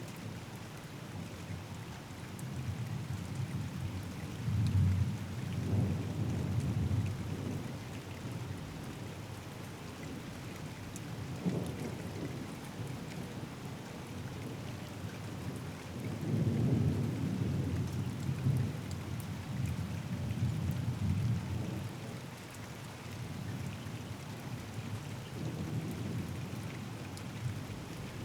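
Steady rain falling during a thunderstorm, with rolling thunder rumbling low underneath: one long roll about four seconds in, a shorter one near the middle, and a longer, louder roll starting around two-thirds of the way through.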